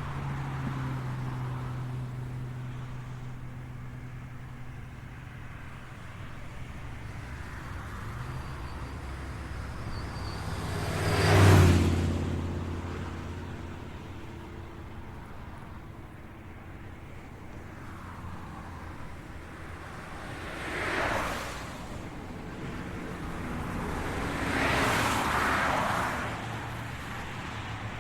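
Road traffic: motor vehicles passing one after another over a steady background hum. The loudest pass, rising and fading away, comes about halfway through, with two smaller ones later.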